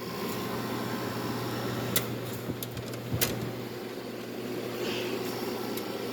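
Hampton Bay 5000 BTU window air conditioner running, its LG compressor humming steadily under the fan's rush of air, with two sharp clicks about two and three seconds in. The unit is building head pressure, and the owner says the compressor doesn't sound happy.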